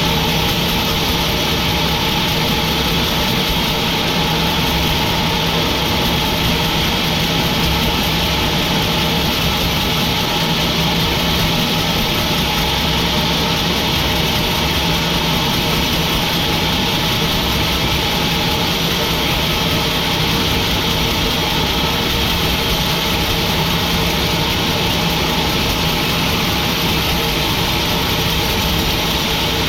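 Sawmill machinery running at a steady, unchanging pitch, a constant mechanical hum with no cut starting or stopping.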